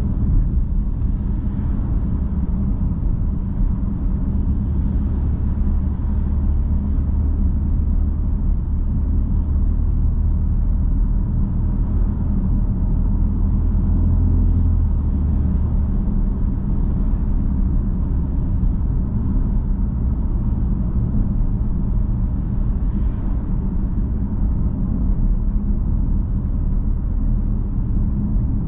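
BMW M3 F80's twin-turbo inline-six running at a steady cruise, a low, even drone. The engine note changes about halfway through.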